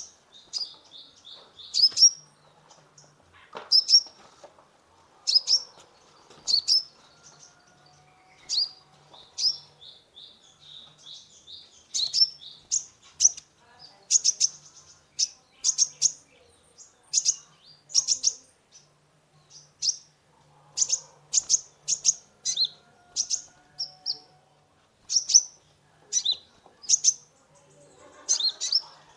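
Kolibri ninja sunbird singing: sharp, high chirps about once or twice a second, with stretches of fast trilling between them.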